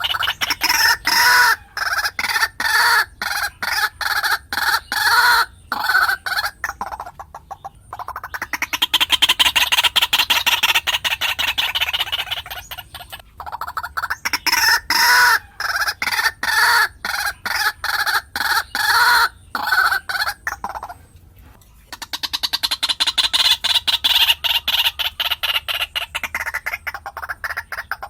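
White-breasted waterhen calling: long bouts of rapidly repeated clucking notes, broken by short pauses about 7, 13 and 21 seconds in.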